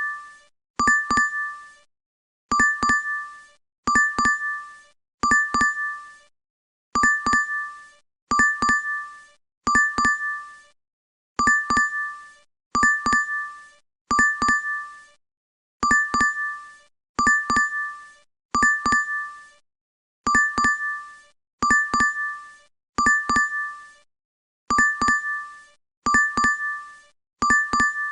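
DoorDash app notification chime, a short bright double-struck ding repeated over and over about every second and a half.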